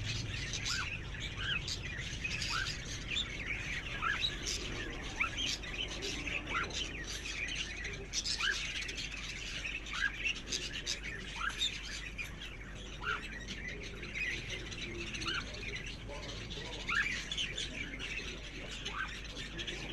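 Pet cockatiels chirping and chattering continuously, with short rising whistle notes repeating every second or so.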